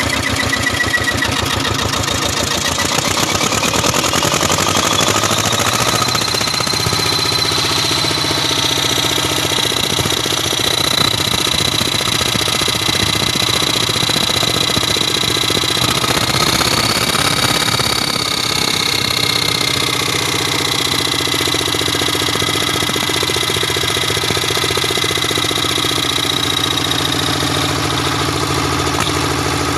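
Lister Petter stationary engine running steadily, with a high whine that rises in pitch over the first few seconds and then holds level.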